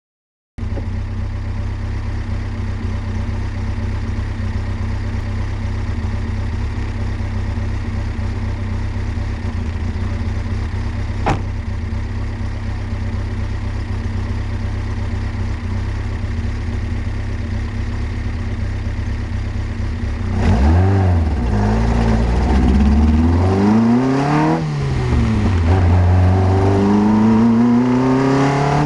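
Fiat X1/9's race-built four-cylinder engine on twin carburettors idling steadily, with a single sharp click about eleven seconds in. From about twenty seconds in it is revved several times, the pitch rising and falling with each blip of the throttle.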